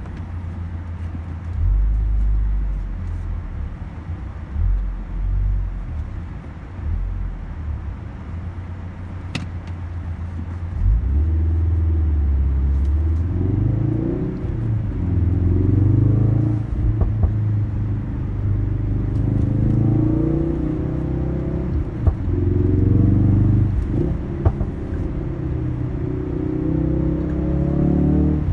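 Ford Focus RS's turbocharged four-cylinder heard from inside the cabin. First a steady low rumble with tyre noise on a gravel lane, then from about a third of the way in the engine note climbs and drops back several times as the car accelerates along a paved road.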